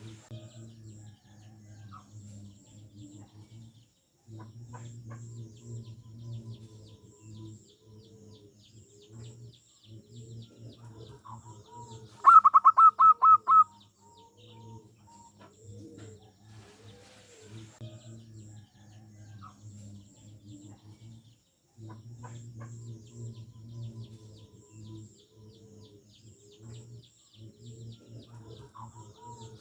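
Zebra doves (perkutut) calling: a near-continuous run of soft, low coos, and about twelve seconds in a loud, rapid series of about eight staccato notes lasting a second and a half. Faint high chirps of small birds sound throughout.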